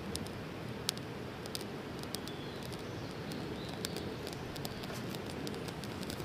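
Campfire crackling: a steady low rush of burning wood with irregular sharp pops and snaps, one louder pop about a second in.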